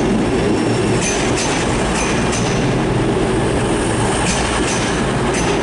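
Train running on the track, a steady rumble with repeated clicks over rail joints and brief high-pitched wheel squeals.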